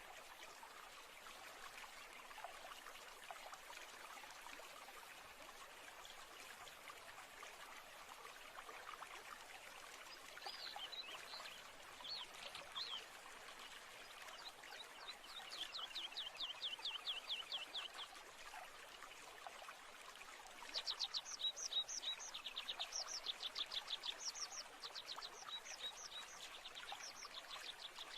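Steady trickle of running water, with birdsong: a few short high notes about a third of the way in, then rapid high-pitched trills of about ten notes a second in the second half, the loudest of them just past two-thirds of the way through.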